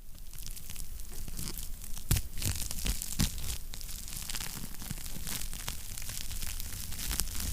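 Wood fire crackling in a fireplace: frequent sharp pops and snaps over a low, steady rumble, with louder pops about two and three seconds in.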